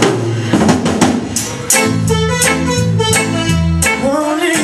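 A live band starting a song: a drum fill of sharp hits opens it, then bass, guitar and chords settle into the groove about two seconds in.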